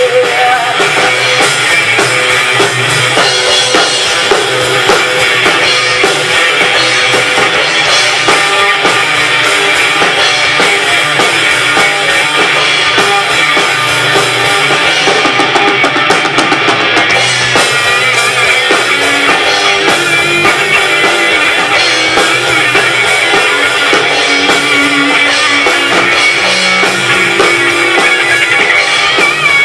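Live rock band playing an instrumental passage: drum kit and electric guitars. The sound is loud and steady, with no break.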